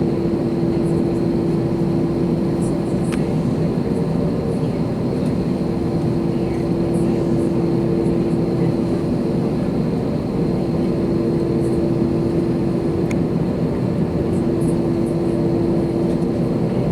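Airbus A321 jet engines and airflow heard from inside the passenger cabin as a steady rumble with a constant droning hum, unchanging in pitch and level.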